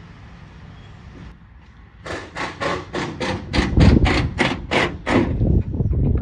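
A rapid run of about a dozen sharp knocks, roughly four a second, starting about two seconds in and stopping shortly after five seconds, with wind rumbling on the microphone.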